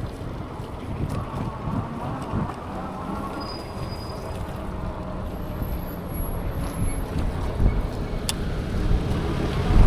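Wind rumbling over the microphone while riding in traffic, with the faint hum of passing vehicles and a sharp click about eight seconds in.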